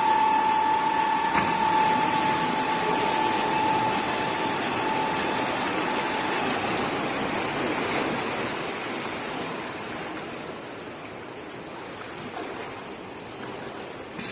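Rushing noise like pouring water, with a steady mechanical whine that fades away over the first half; the whole sound slowly dies down.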